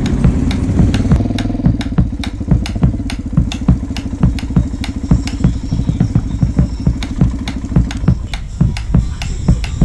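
A motorcycle engine running, mixed with music that has a steady beat of about three beats a second. The engine fades out near the end, leaving the music.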